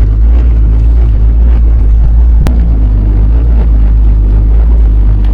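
Steady low engine drone, with a single sharp click about two and a half seconds in.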